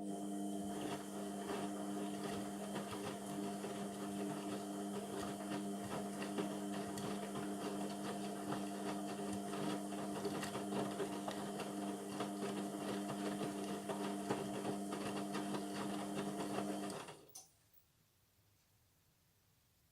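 Indesit MTWC71252WUK washing machine running mid-cycle with a steady motor hum, then stopping suddenly about 17 seconds in.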